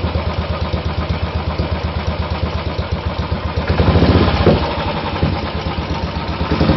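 Royal Enfield 500's single-cylinder four-stroke engine idling through an MG-Race aftermarket exhaust, with an even, steady beat. About four seconds in it is briefly blipped a little louder, then it settles back to idle.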